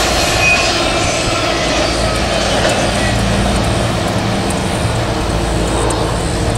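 Double-stack intermodal container cars of a Norfolk Southern freight train rolling away on curved track, with steel wheels running on the rails in a steady noise. A thin steady tone comes in near the end.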